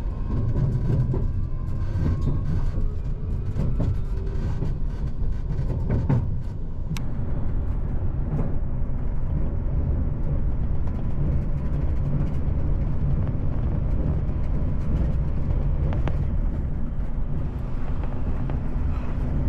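JR Shikoku 8600 series electric train running at speed: a steady low rumble of wheels on rail with occasional sharp clicks, and a faint rising whine in the first second.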